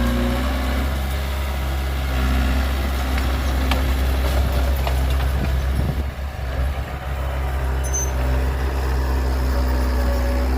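Heavy diesel engine of earthmoving or haulage equipment running at a steady speed, its hum turning rougher and dipping briefly a little past the middle.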